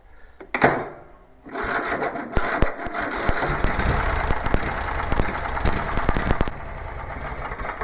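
Husqvarna lawn tractor's 24 hp Kohler engine turning over as it is tried after a service, a noisy mechanical rattle for about five seconds that then drops to a quieter level near the end.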